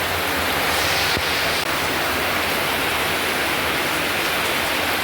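Heavy rain falling, a steady even rush of water noise.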